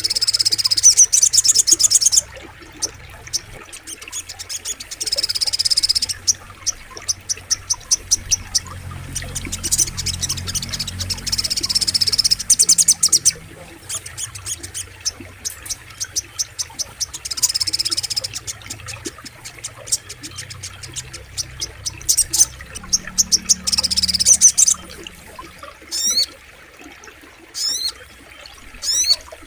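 Crimson sunbird (sogok ontong) singing: repeated high, rapid trilling phrases of a second or two each, several times over, with a few quick falling chirps near the end. A low rush of flowing river water sits underneath.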